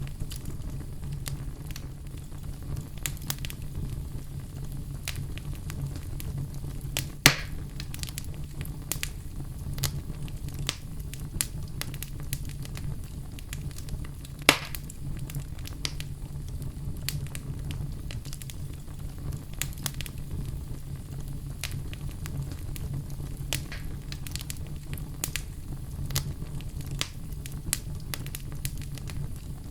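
Wood fire in a fireplace crackling steadily over a low rumble, with many small scattered pops and two louder pops, about seven and fourteen seconds in.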